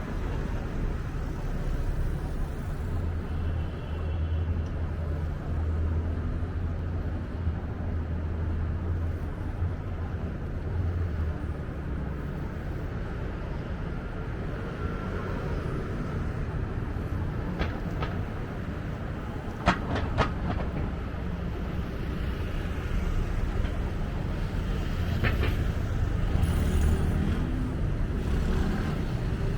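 A train running on rails: a steady low hum with a few sharp metallic clicks about two-thirds through, getting louder near the end.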